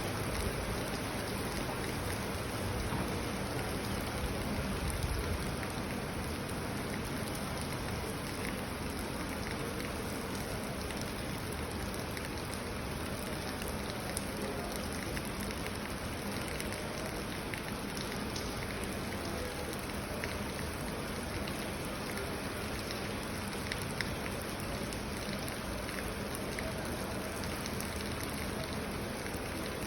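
Steady rain falling, an even hiss with scattered sharper ticks of single drops. It is a little louder and deeper for the first five seconds or so.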